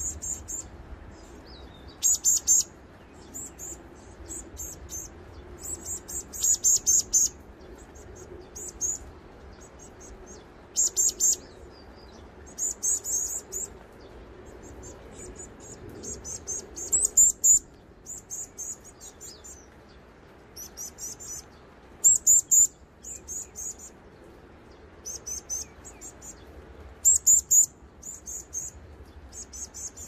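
Varied tit nestling calling: high, rapid chittering notes in short bouts every second or two, some bouts much louder than others.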